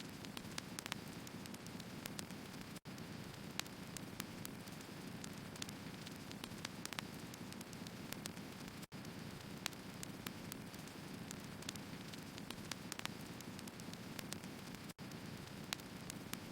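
Burning firewood crackling: a faint steady hiss with many small, scattered pops and snaps. The sound cuts out for an instant three times, about every six seconds.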